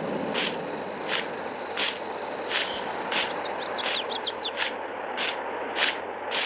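Crickets or other insects giving a steady high hum, with birds chirping briefly in the middle, over a rhythmic swishing crunch about every two-thirds of a second.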